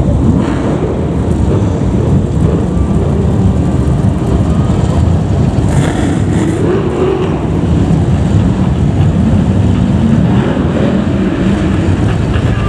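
BriSCA F1 stock cars' V8 engines running together on the track, a loud continuous rumble with no single car standing out.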